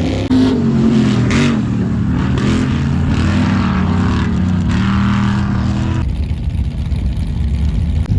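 Off-road race car engines running loud and revving up and down, several overlapping. The sound changes abruptly about six seconds in.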